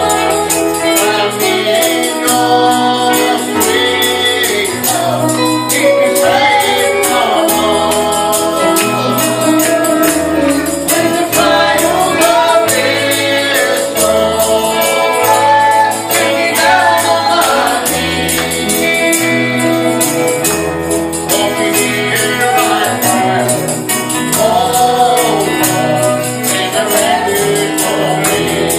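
Live gospel music: a tambourine shaken on a steady, fast beat over a stepping bass line, with voices singing.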